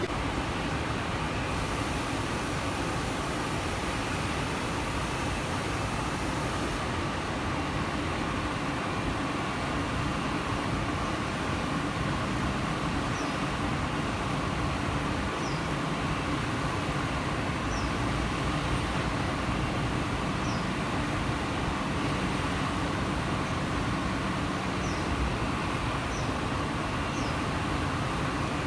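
Steady, unbroken rumbling background noise with a low hum running through it. Through the second half, faint short high chirps come every couple of seconds.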